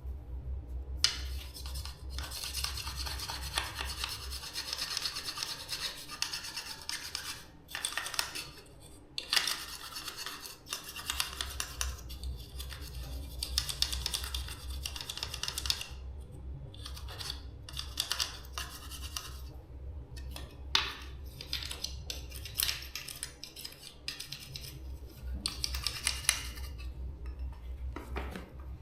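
Hand scrubbing and scraping on the small parts of a mosquito trap under repair, in irregular strokes and stretches with short pauses, over a low steady hum.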